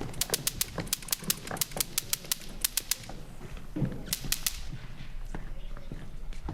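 A quick, irregular run of sharp clicks lasting about three seconds, with a few more clicks about four seconds in.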